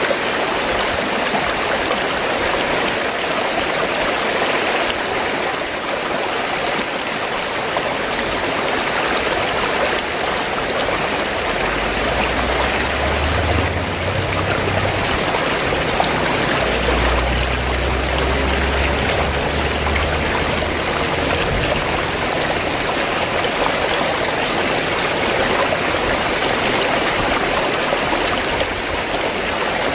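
Fast-flowing stream water gurgling and rushing steadily. A low rumble joins it from about twelve seconds in until about twenty-one seconds.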